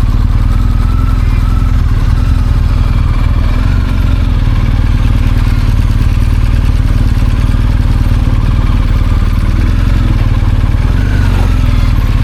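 BMW R 1250 GS motorcycle's boxer-twin engine running steadily and loudly.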